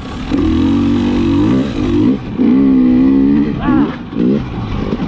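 KTM 300 XC-W TPI two-stroke dirt bike engine working hard through deep sand, its pitch held, then dropping and rising again as the throttle changes. A short grunt from the tired rider comes through about three and a half seconds in.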